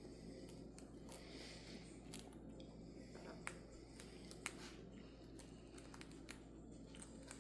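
Faint scattered clicks and crunches from a parrot chewing with its beak, over a low steady hum; two sharper clicks come about halfway through.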